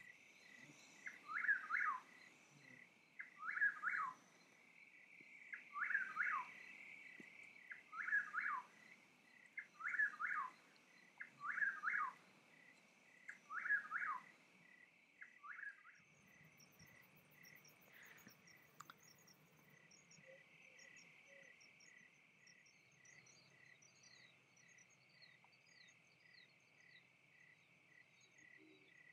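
A steady insect chorus of crickets or cicadas, with a bird repeating a loud falling call about every two seconds for the first half. After that only the insects and faint high chirps remain.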